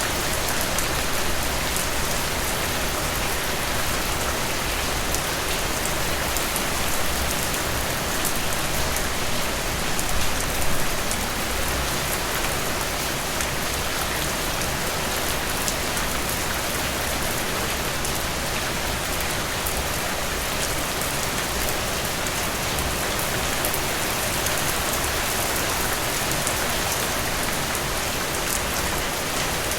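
Steady rain: an even hiss of falling rain dotted with many small drop ticks, swelling slightly about ten seconds in.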